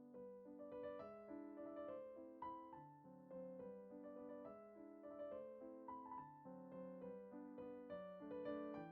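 Soft background piano music: a gentle melody with notes changing about every half second.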